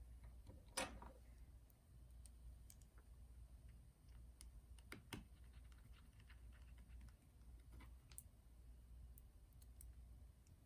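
Near silence over a steady low room hum, with a few faint, scattered small clicks and taps, the clearest about a second in.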